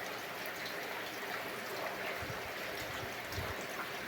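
Steady rain falling, with water trickling and a couple of soft drops from a roof leak landing about two and three and a half seconds in.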